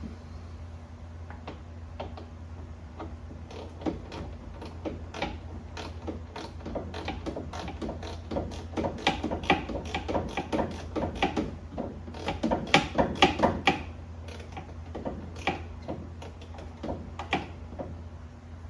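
Hand tools clicking and rattling on a radiator hose clamp as it is fitted and tightened. The clicks come irregularly, then in quick runs through the middle, with a steady low hum underneath.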